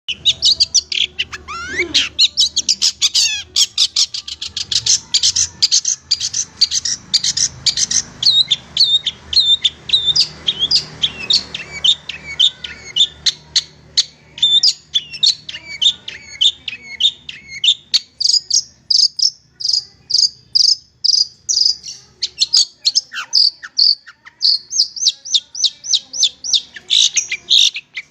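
Long-tailed shrike (cendet) singing a loud, unbroken run of rapid, sharp high-pitched chattering notes, the song used as a training recording for caged songbirds.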